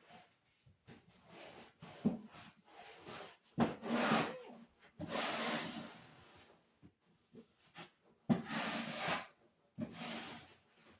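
Scrubbing or wiping a surface by hand, in several short rubbing spells with pauses between.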